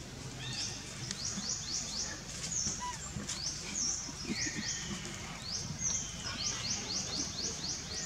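Birds chirping: quick runs of short, high notes, each sliding sharply downward, several a second.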